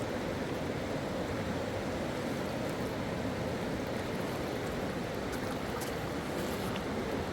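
Rushing river water, a steady even roar with a few faint ticks above it.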